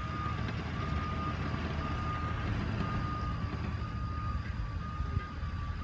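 Diesel engine of a heavy machine idling with a steady low rumble, under a faint beep that repeats roughly once a second.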